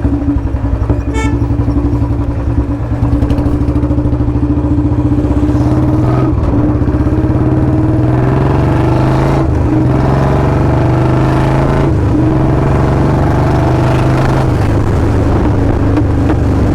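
Royal Enfield Bullet 350 single-cylinder exhaust running loud through a free-flow L-bend pipe and long Punjab silencer, a steady thumping note as the bike is ridden. The engine note rises a little about eight seconds in and drops back near the end.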